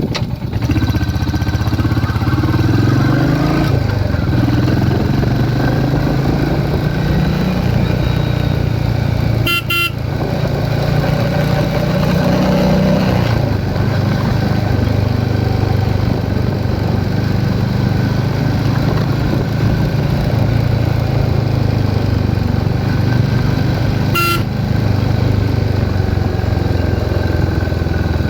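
Royal Enfield Hunter 350's single-cylinder engine and exhaust running, its pitch rising and falling a few times as the throttle is worked. A horn toots briefly twice, about ten seconds in and again near the end.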